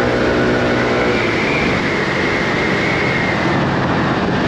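Motor scooter engine running steadily under wind and road noise while riding. About a second in, the steady engine tone drops away, leaving mostly rushing wind and road noise.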